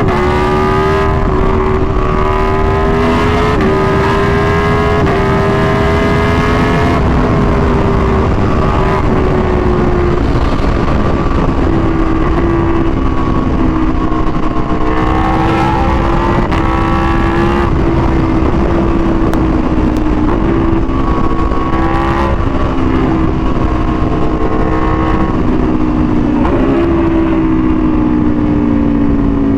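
Aprilia Tuono V4 1100's V4 engine through an SC-Project exhaust, running under way at fairly steady revs, its pitch rising and dipping a little now and then.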